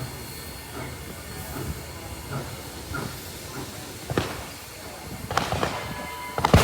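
A train moving along the track: a steady rumble with scattered metallic knocks and clanks from the cars, growing louder and more frequent in the second half and ending in a sharp clank.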